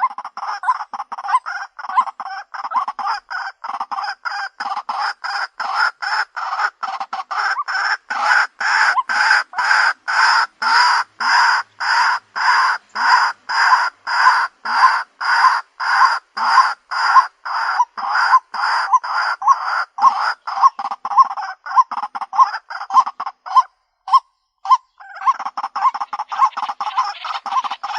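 White-breasted waterhen calling, a long steady series of repeated harsh 'kwaak' notes about two or three a second. Near the end the calling briefly thins to single notes, then resumes denser and overlapping.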